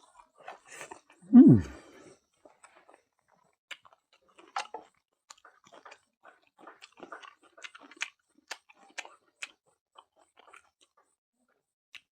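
Close-up chewing and biting of food, with scattered wet clicks and small crunches. About a second and a half in there is one loud, short, low sound that falls in pitch.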